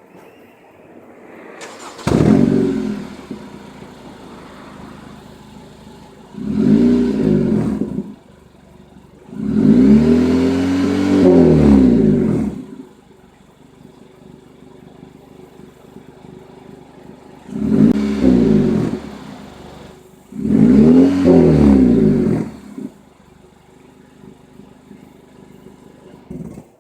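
2016 Acura ILX's four-cylinder engine, through a muffler-deleted exhaust, revved five times from idle. Each rev rises and falls in pitch, and the third and fifth are held longer. Between revs it settles back to a quiet, steady idle.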